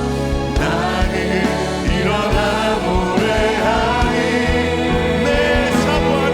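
Church praise band and singers performing a contemporary worship song, with a steady drum beat under the voices.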